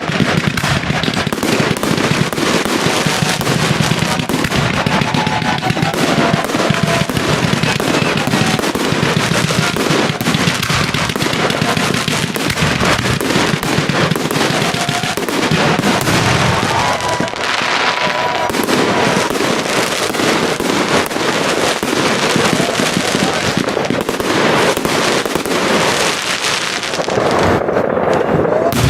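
Large fireworks display: a dense, continuous barrage of crackling and banging shell bursts, thinning briefly about a second before the end.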